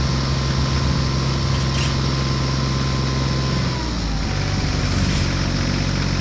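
Engine-running sound of a toy vehicle: a steady, droning engine hum that changes pitch about four seconds in, with two brief hisses.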